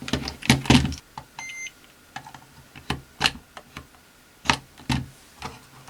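Sharp clicks and knocks of test leads and clips being handled, with one short high beep about a second and a half in from a multimeter's continuity tester, checking the radio's power input for a short.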